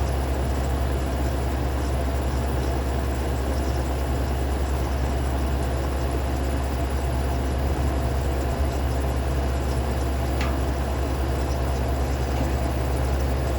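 Amana dehumidifier running steadily: a low compressor hum under the even rush of its fan, with one faint tick about ten seconds in.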